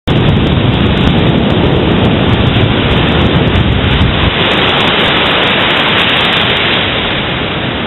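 Ocean surf with wind buffeting the microphone: a loud, steady rush with a heavy low rumble that eases somewhat about four seconds in.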